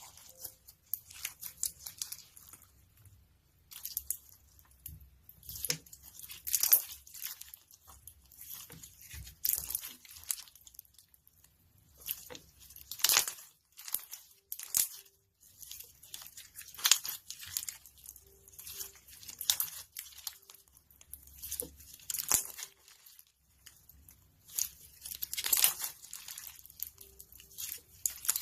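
Slime being squeezed and stretched by hand, giving off irregular crackling and popping in short clusters with brief pauses between.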